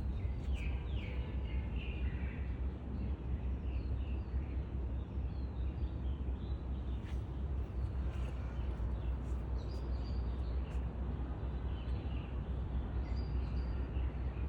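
Outdoor ambience: small birds chirping in short, quick calls over a steady low rumble.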